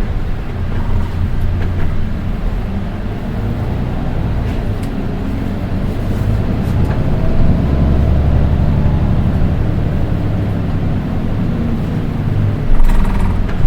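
Interior running sound of a Nissan Diesel Space Runner RM (PDG-RM820GAN) city bus: the diesel engine and drivetrain running steadily under way, with a faint higher whine that bends in pitch over the low engine note. This bus has an unusually shrill engine sound compared with the others of its type. A short loud burst of hiss comes near the end.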